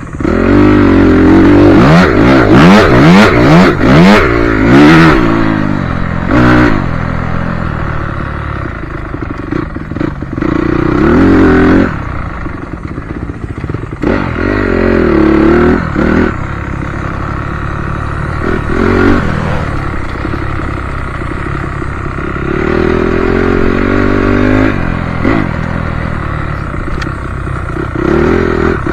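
Motocross bike engine revving through repeated throttle bursts, its pitch rising and falling with each one. It is loudest in the first few seconds, with further surges through the rest.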